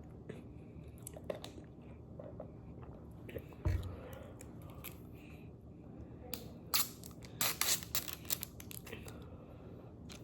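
Fast-food paper packaging being handled: crinkling and small clicks, a dull thump a few seconds in, then a short burst of crackling crinkles about two-thirds of the way through.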